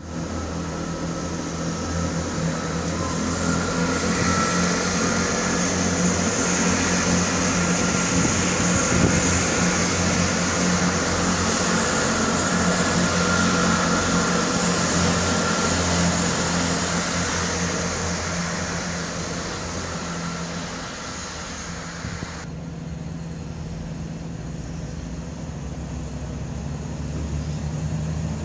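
A passenger train running at the station: a steady low engine hum with a rushing noise that builds, then falls away sharply about 22 seconds in, leaving the hum.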